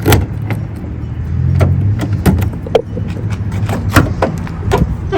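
Bucket truck engine running steadily, with repeated clanks and knocks over it.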